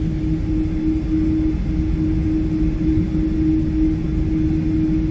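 Cabin noise inside a Boeing 777-300 airliner: a steady low rumble of engines and airflow, with a constant hum running through it.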